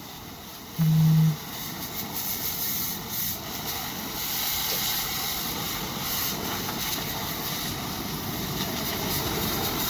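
Excavator running with a steady mechanical noise, with a brief loud low tone about a second in.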